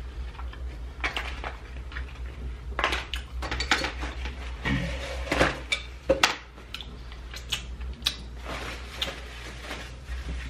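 Close-miked chewing and mouth sounds of someone eating sushi: irregular wet smacks and sharp clicks, over a steady low hum.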